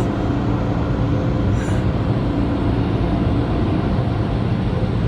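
Tornado car wash dryer blowers running at full power: a loud, steady rush of air over a low hum, heard from inside the car being dried.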